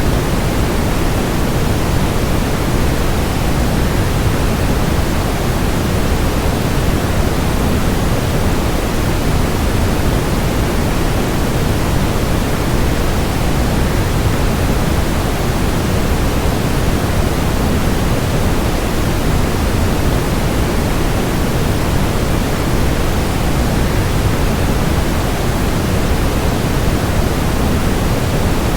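Steady, unchanging rushing noise of a waterfall, heaviest in the low end, with no other sounds.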